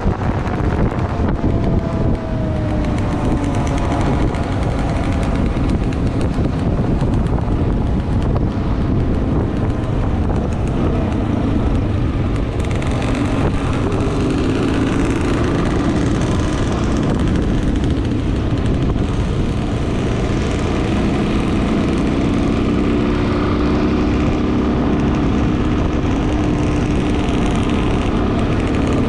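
Dual-sport motorcycle engine running while riding, under a steady rush of wind noise; the engine note drops over the first few seconds, then holds steadier and stronger in the last third.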